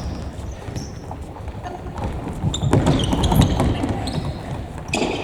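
Futsal players running on an indoor court: quick footfalls and thuds on the gym floor, with short high-pitched sneaker squeaks, busiest about three seconds in.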